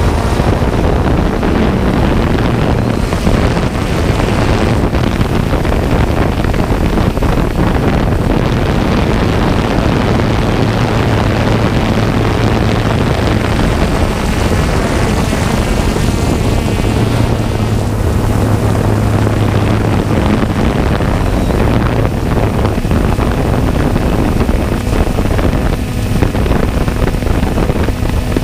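Jet ski engine running steadily under way, with heavy wind buffeting the microphone.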